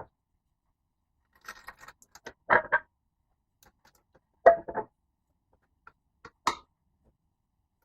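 Pallet wood being broken up and handled: a light clatter, then a few sharp wooden knocks, the loudest as two quick double hits about two seconds apart and a single knock near the end.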